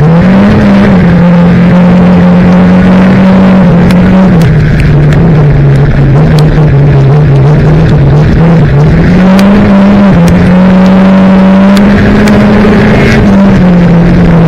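Junior banger race car's engine, heard loud from inside the stripped cabin, its revs rising and falling several times as it is driven hard around the oval track.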